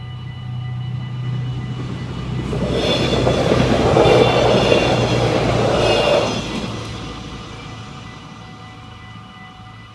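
Stadler GTW diesel multiple unit passing over the level crossing, loudest about three to six seconds in, then fading away, with a steady engine hum. The crossing bells ring steadily underneath.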